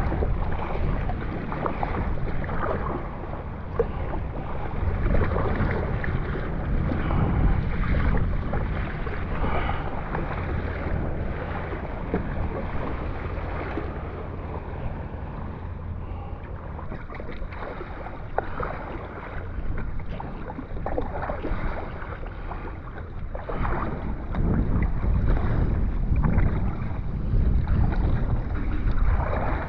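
Kayak paddle strokes dipping and splashing with water sloshing at the hull, over a steady low rumble of wind on the microphone.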